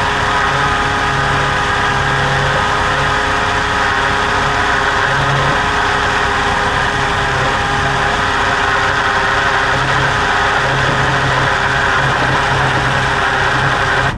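Rechargeable Ninja portable blender running steadily, its motor whirring as it blends a smoothie, then cutting off suddenly at the end.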